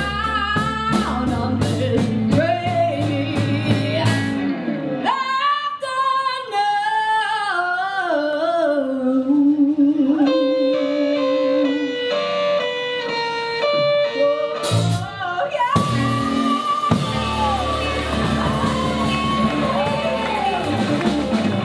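A live rock band plays with a female lead vocal, electric guitars, bass and drums. About five seconds in, the bass and drums drop out, leaving the voice and guitar. The full band comes back in after about fifteen seconds.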